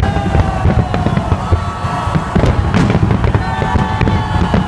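Fireworks barrage: aerial shells bursting overhead in a rapid, continuous run of deep booms and crackling, with some held tones above it.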